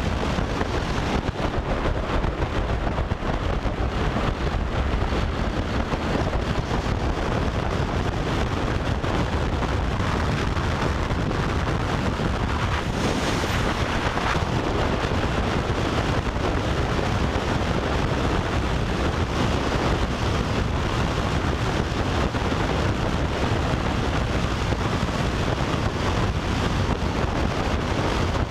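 Steady wind rushing over the microphone of a motorcycle riding at road speed, drowning out the engine.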